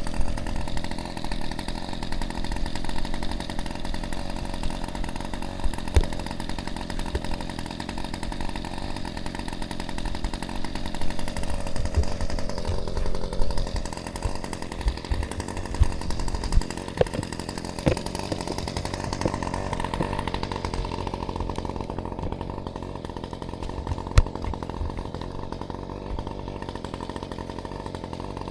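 Motorised garden cutting tool running steadily while pruning fruit-tree branches, its pitch dipping and recovering about twelve seconds in as it takes a load. A few sharp knocks, the loudest about twenty-four seconds in.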